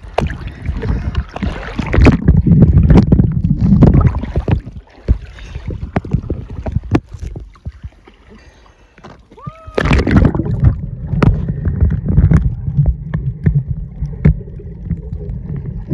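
Water splashing and sloshing close to the microphone, with heavy rumbling, in two loud spells: one from about two to five seconds in, and one from about ten seconds in to the end. A quieter lull of several seconds lies between them.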